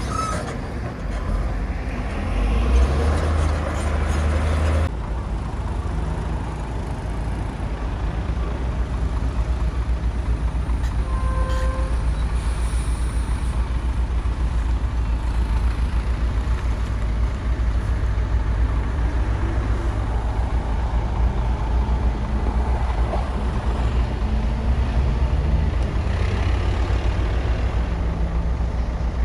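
Komatsu bulldozer's diesel engine running under load while pushing soil, a steady deep rumble. The sound changes abruptly about five seconds in.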